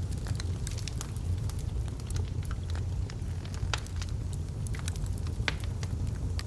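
Log fire burning in a fireplace: irregular crackles and pops over a steady low rumble of the flames, with two louder pops, one near the middle and one about two-thirds of the way through.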